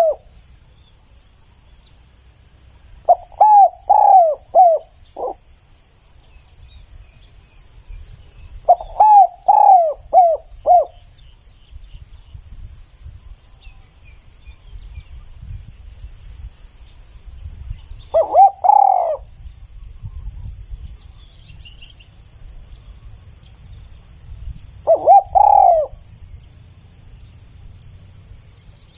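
Spotted doves cooing: two phrases of four quick coos each, then two single drawn-out coos later on. A steady high chirping of insects runs behind.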